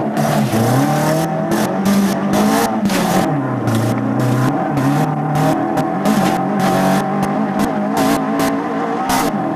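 Mk1 Ford Escort rally car's engine, heard from inside the car, revving hard, its note climbing and dropping several times as it changes gear, with frequent sharp clattering knocks over the top.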